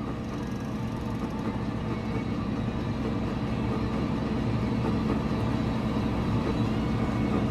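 A farm vehicle's engine running steadily under load, its drone slowly growing louder.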